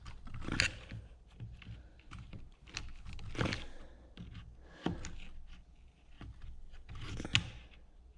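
Hand work on Stihl MS290 chainsaw parts during fuel line removal: scattered small clicks, knocks and scrapes of plastic, metal and rubber, with four louder knocks spread through.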